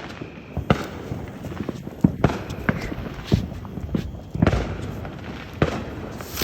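Fireworks and firecrackers going off, a string of sharp bangs at irregular intervals, some louder and some fainter.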